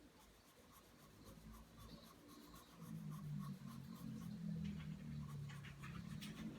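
Pencil drawing lines on paper: graphite scratching in repeated strokes, getting louder about three seconds in.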